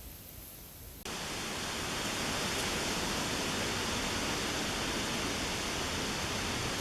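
Quiet outdoor ambience, then about a second in a sudden switch to the steady rushing of flowing creek water.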